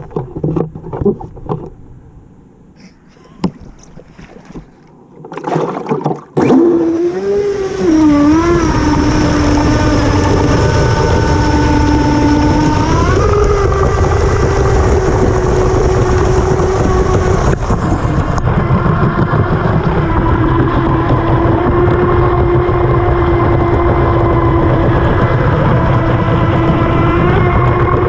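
Scattered knocks and bumps, then about six seconds in a 12th-scale electric R/C unlimited hydroplane takes off and runs at speed. Its motor gives a steady whine whose pitch wavers at first and then steps up, over loud water rush, heard from a camera inside the boat's cowling.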